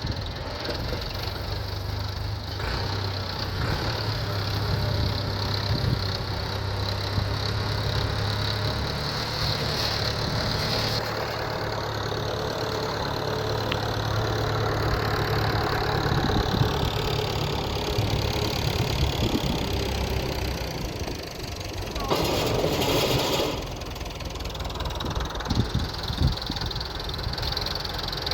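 Tractor engine running steadily at low revs while the water tanker is filled. About 22 seconds in, a brief louder rushing noise rises over it.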